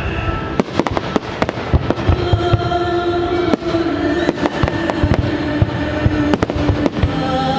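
Fireworks going off in quick succession, sharp bangs and crackles all through, over the show's music, whose sustained notes come in about two seconds in.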